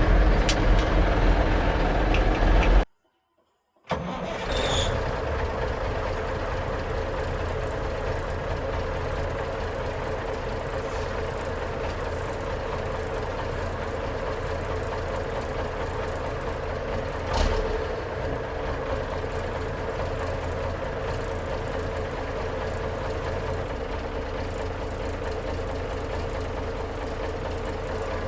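Cummins Big Cam 350 inline-six diesel in a Kenworth W900 dump truck running just after a cold start. It is loud for the first few seconds, breaks off for about a second, then idles steadily. A single sharp knock comes partway through.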